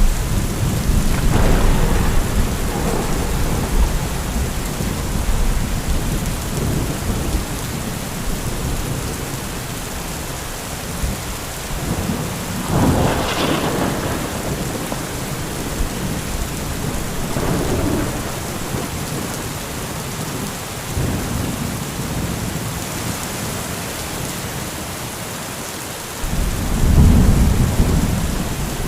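Steady heavy rain with rolling thunder: a deep rumble at the start that fades, a sharper thunderclap about 13 seconds in, and another low rumble building near the end.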